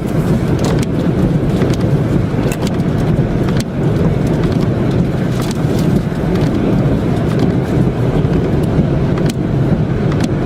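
Steady low rumble of a car on the move, with scattered sharp ticks over it.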